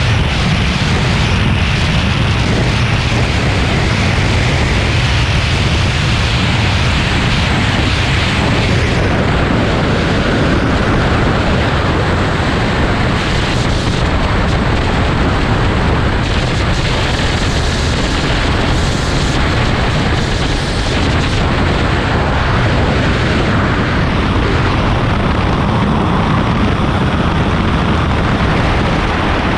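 Heavy wind buffeting on the microphone of a moving motorcycle, a loud, steady rumbling rush.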